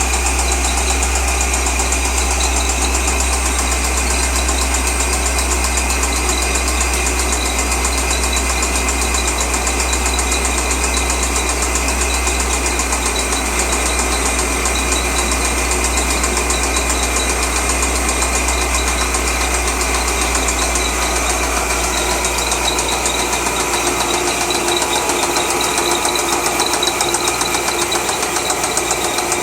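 2003 Corvette Z06's LS6 V8 running steadily with a rapid, even ticking knock through it, which the owner takes for engine knock.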